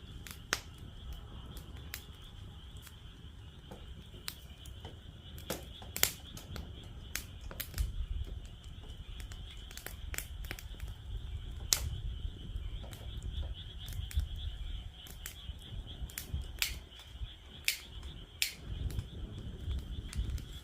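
Wood fire crackling in a campfire stand: irregular sharp pops and snaps, a few much louder than the rest, over a low rumble. A steady high-pitched chorus runs underneath.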